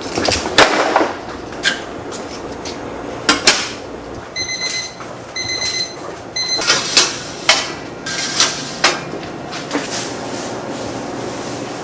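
Knocks and clatter of bakery work, with a machine's electronic beeper sounding two longer beeps and a short one around the middle.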